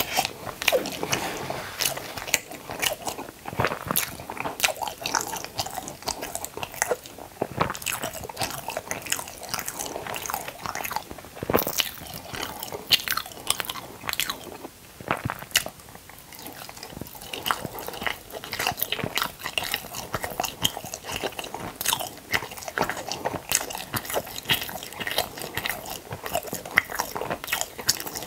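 Close-miked chewing and crunching of food: a steady run of crisp, crackling bites and wet mouth sounds, irregular and dense.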